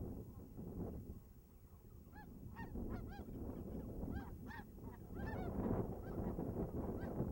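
Geese honking: a run of short, nasal, arching calls from several birds, thickest in the middle and latter part. Steady wind rumble on the microphone underneath.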